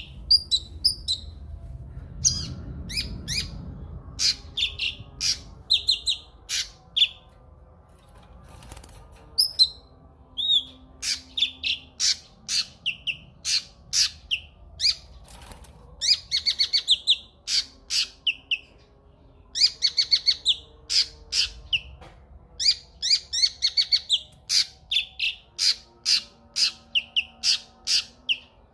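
A cucak kinoi singing in a long, loud run of rapid, sharp notes, mixing clipped chips with short sliding whistles. The song comes in dense bursts separated by brief pauses.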